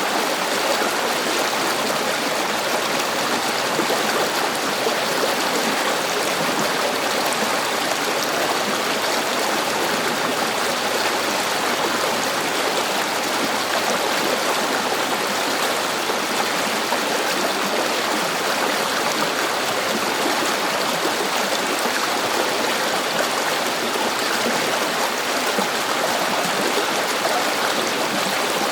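River water flowing and rushing over rocks, a steady, even rush with no change.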